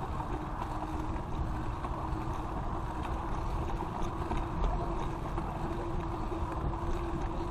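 Riding noise from a moving bicycle: a steady rumble of tyres on pavement and wind on the microphone, with a faint steady hum coming in about a third of the way through.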